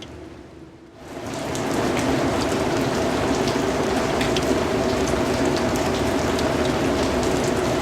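Steady rain falling, with individual drops ticking sharply. The sound starts faded low and swells back up to full level over about a second.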